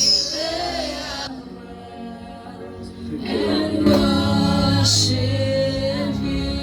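Gospel worship singing by voices. It dips softer about a second in and swells back up a little after three seconds.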